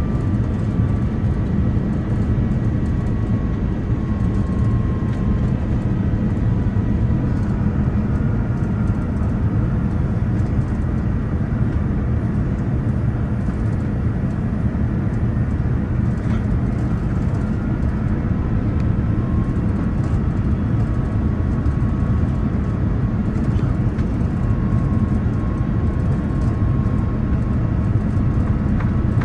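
Steady cabin noise inside a Boeing 787-9 airliner, a low rumble of engine and airflow noise with a faint high whine that drifts slightly in pitch.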